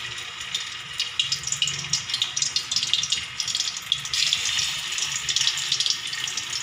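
Raw pork meatballs frying in a little hot oil: a steady sizzle with dense, irregular crackling pops that thicken about a second in. A second meatball goes into the oil about four seconds in.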